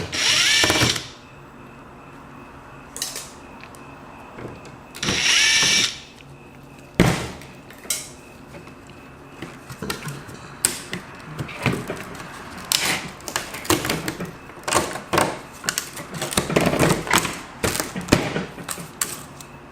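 A small electric screwdriver whirs in two short bursts of about a second each, its pitch rising as the motor spins up. Then comes a run of quick clicks, taps and rattles as small laptop parts are handled and pulled loose.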